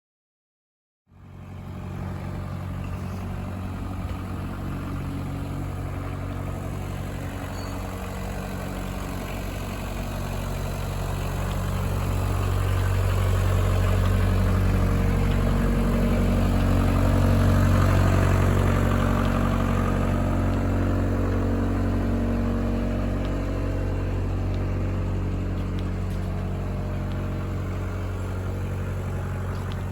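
JCB 55Z-1 mini excavator's diesel engine running steadily. It grows louder toward the middle, then eases back a little.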